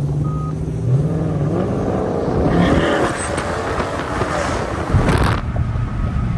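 Car engine idling, with a short rise in revs about a second in, among the running of other cars. A sudden loud rushing burst comes about five seconds in.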